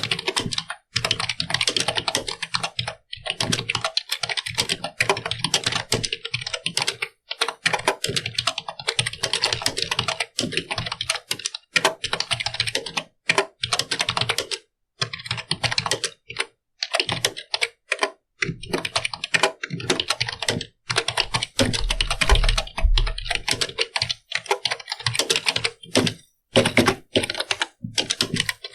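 Computer keyboard being typed on: a fast, continuous clatter of keystrokes broken by short pauses, with a few heavier thuds about two-thirds of the way in.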